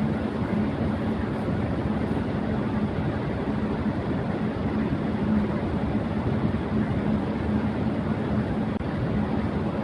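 Electric fan running steadily at high speed: an even rushing whoosh of air with a steady low hum from the motor.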